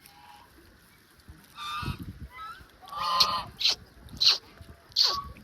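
Domestic waterfowl honking: a few harsh, drawn-out calls, then a run of short, loud honks falling in pitch, each about two-thirds of a second apart.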